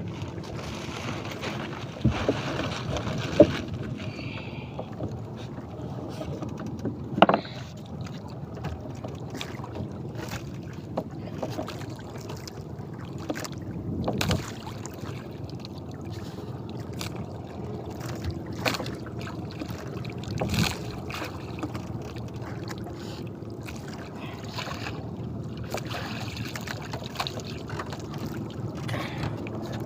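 Steady low hum and wash of a small fishing boat at sea, broken by scattered knocks and thumps. The loudest knocks come a few seconds in and again about seven seconds in.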